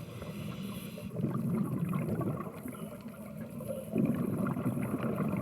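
Underwater noise heard through a camera housing: a low, rough wash of water sound that swells about a second in and again about four seconds in.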